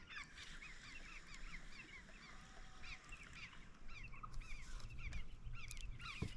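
A dense chorus of many animals calling at once: short, arching chirps that overlap steadily without a break.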